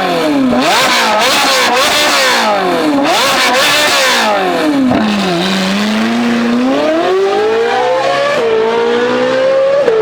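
Ferrari 458 Speciale's V8 through a straight-pipe exhaust, revved up and down several times, then the revs drop and climb steadily through the second half with a short dip near the end.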